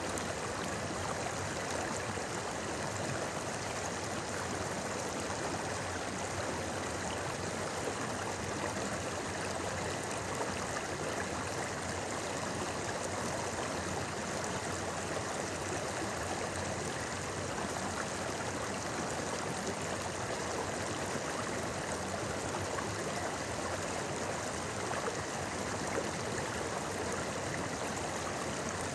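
Shallow river flowing in a steady, even babble of running water.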